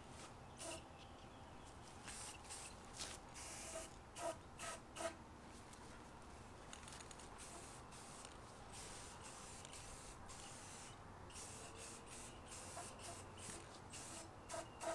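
Aerosol spray can of primer hissing in short bursts onto a steel wheel bracket, with the can's mixing ball rattling a few times as it is shaken.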